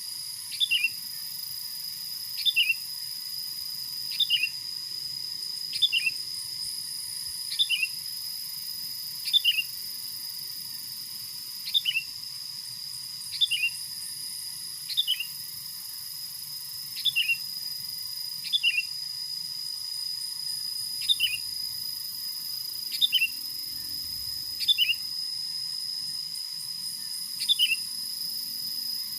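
A bird's short call, a quick falling pair of notes, repeated evenly about every one and a half to two seconds over a steady high insect drone.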